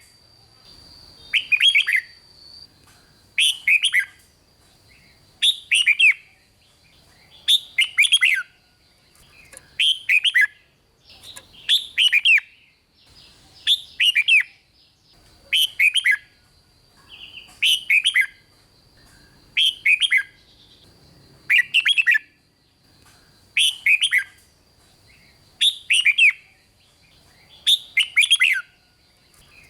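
Red-whiskered bulbul singing short, fast whistled 'rik' phrases, the song bird keepers play to rouse caged bulbuls. The same brief phrase repeats at an even pace, about one every two seconds.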